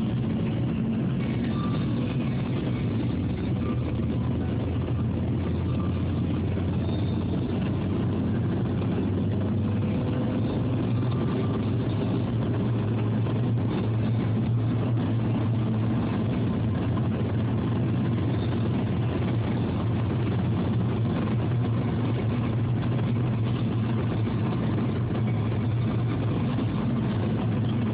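Car running at steady speed, a constant low drone of engine and road noise, as heard from inside the cabin.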